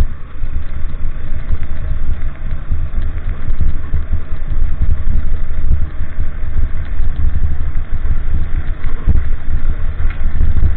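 A vehicle engine running on the move, under a heavy, gusting wind rumble on the microphone.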